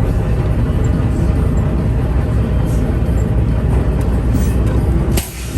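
Steady low rumble of a vehicle driving on the road. It breaks off abruptly with a click about five seconds in and briefly drops quieter.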